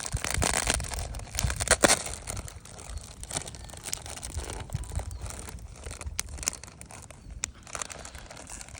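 Crinkling and crackling handling noise, dense and loudest in the first two seconds, then thinning to scattered sharp clicks.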